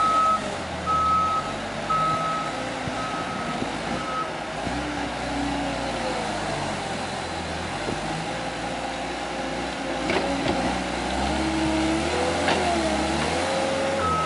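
Cat 287B track skid steer's diesel engine working under load, its pitch rising and falling, with a backup alarm beeping about once a second for the first four seconds. A couple of sharp knocks come later on.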